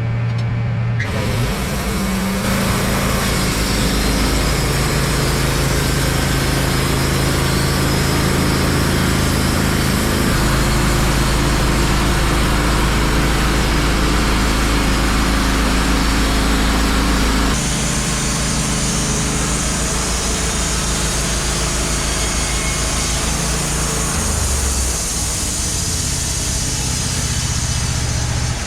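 Wood-Mizer LT15 Wide band sawmill running, its engine droning steadily under the hiss of the blade cutting a hemlock log. The sound steps up about a second in and changes tone a few times as the cut goes on.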